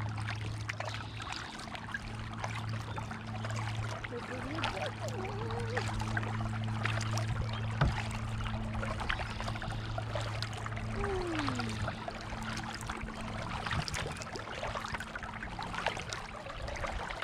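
Kayak paddles dipping into calm water, with water trickling and dripping off the blades in many small splashes. A steady low hum runs underneath and stops about twelve seconds in.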